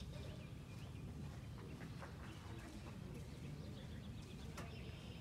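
Small birds chirping faintly in short scattered notes over a low steady rumble, with one sharp click about four and a half seconds in.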